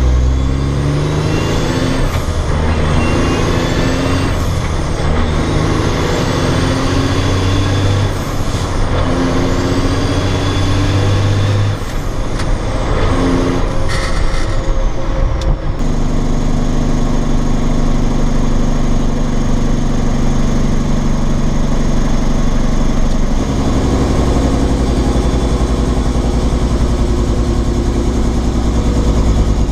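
Cat C15 diesel engine of a dump truck pulling through the gears of a 13-speed Eaton Fuller transmission shifted without the clutch. The engine pitch climbs and then drops at each of several upshifts in the first half. From about halfway the engine runs steadily at a constant speed.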